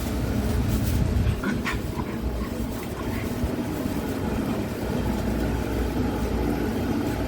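A Jindo dog makes a few brief, faint whimpering sounds about one and a half to three seconds in, over a steady low rumble.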